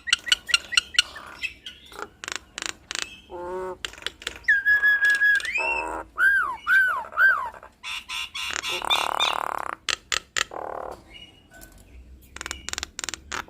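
A jalak nias myna singing a varied mimicking song. It opens with a fast clicking rattle, goes on to clear whistles including three quick down-slurred notes, then a harsh rasping burst and scattered clicks.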